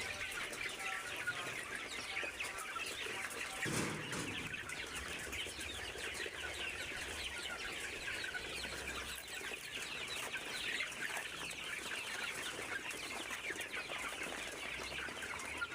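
A flock of chicks and hens calling: a continuous chatter of many high, falling chick peeps with clucking mixed in. A brief thump about four seconds in.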